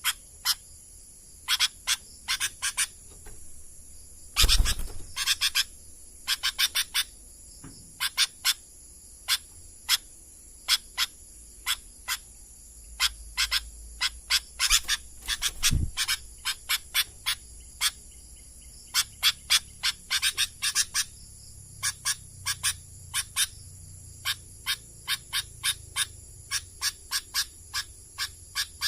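Sooty-headed bulbul (kutilang) calling in a long run of short, sharp notes in irregular clusters, with a louder burst about four seconds in. A steady high insect drone runs underneath.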